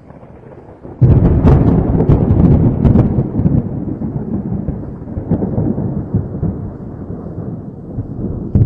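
A thunderclap: a sudden loud crack and crackle about a second in, rolling into a long low rumble that slowly fades.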